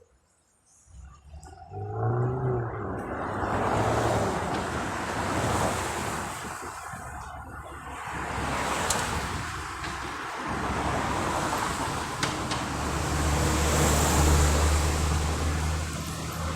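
Road traffic going by: motor vehicles passing on the road, with a steady low engine hum coming in for the last few seconds.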